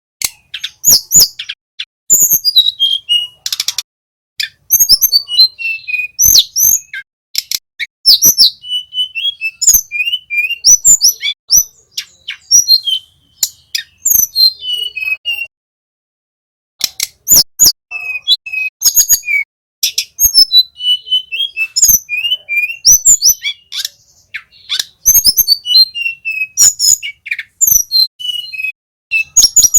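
Flycatcher song: fast runs of high whistles and falling trills mixed with sharp clicking notes, broken by a pause of about a second midway.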